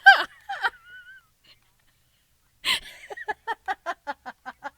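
A woman laughing: a short high-pitched squeal that falls in pitch, then after a pause a breathy gasp and a quick, even run of "ha-ha-ha" laughs, about five a second.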